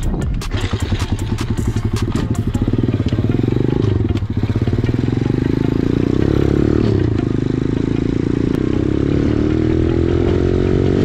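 Minirocket Superpit 125 pitbike's single-cylinder four-stroke engine running under way, revving up and easing off several times, then climbing slowly in pitch near the end. Sharp clattering knocks sound over the engine in the first couple of seconds.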